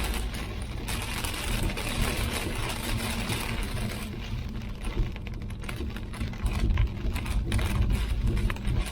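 Low, steady rumble of a moving vehicle with many rapid, irregular ticks and clicks over it, thicker in the second half.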